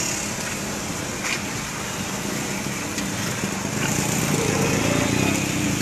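Heavy rain and wet street traffic heard from inside a moving car with its window open: a steady hiss of rain and tyres on the wet road, over a car engine running. The engine grows louder about four seconds in.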